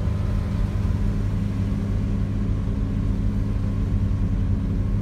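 Steady low rumble of a vehicle engine running at idle in slow, stop-start traffic.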